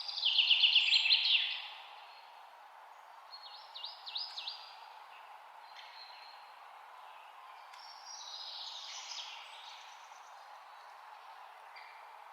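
Songbirds singing over a steady hiss of ambient noise: a loud trilled phrase in the first second and a half, a shorter run of quick notes about four seconds in, and more song around eight to nine seconds.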